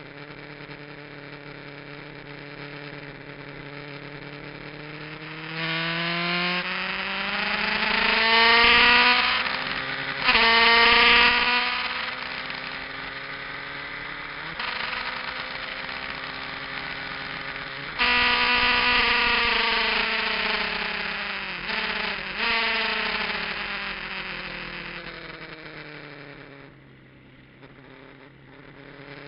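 Kawasaki GPZ900R inline-four motorcycle engine revving up hard with rising pitch, a gear change about a third of the way in, then easing off. It picks up sharply again past the middle and winds down slowly, nearly dropping away near the end.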